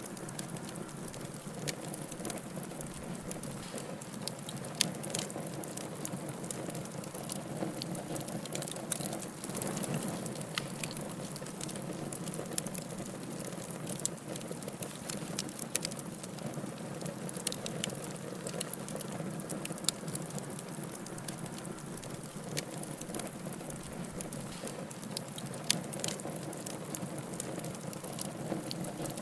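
Wood fire burning in a fireplace: steady crackling with frequent small snaps and a few louder pops.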